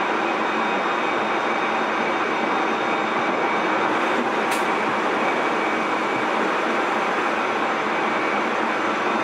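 Tobu 30000 series electric train heard from inside motor car MoHa 33409, running steadily at speed: a constant rumble of wheels on rail with faint steady motor whine. One sharp click about halfway through.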